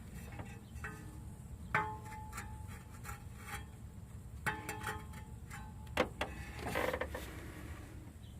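A few light taps of a plastic hammer on a power steering pump seal, driving it flush into the metal pump housing; each tap leaves a short metallic ring, with a brief scrape near the end.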